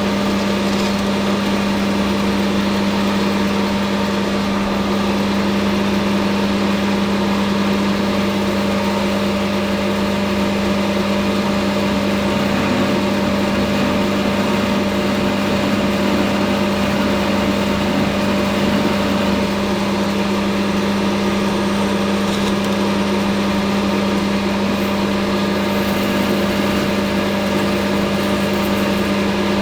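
Metal lathe running steadily under power, its electric motor giving a constant hum.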